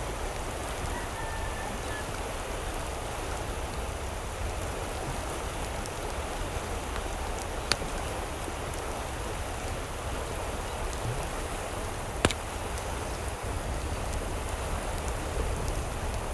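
Steady rain falling, an even hiss, with two sharp taps of drops about eight and twelve seconds in.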